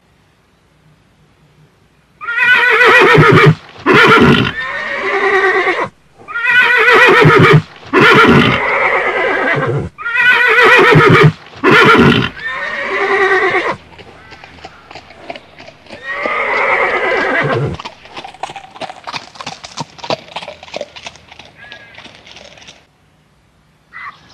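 Horse neighing: three long, wavering whinnies about four seconds apart, then hooves clip-clopping in a quick run for several seconds, with one more whinny partway through.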